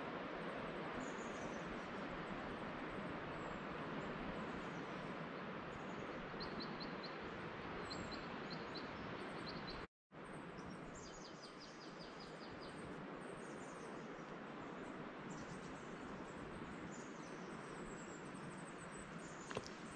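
Small birds chirping in short runs of quick, high notes over a steady rushing background. The sound cuts out completely for a split second about halfway.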